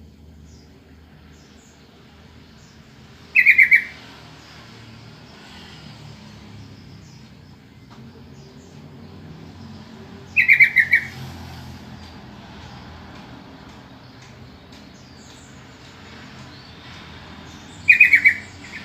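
Yellow-vented bulbul (trucukan) giving a short burst of rapid chattering notes three times, about seven seconds apart, over a low steady background hum. It is the call used to draw other trucukan into answering.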